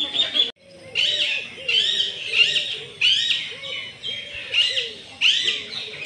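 Birds calling: a quick series of short, arched chirps, about two a second, starting after a brief gap half a second in.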